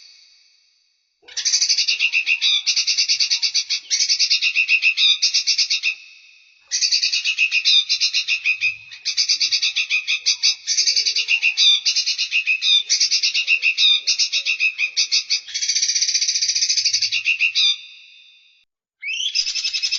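A songbird singing long, high-pitched phrases of fast, rapidly repeated notes, each phrase running several seconds, with short pauses before the next begins.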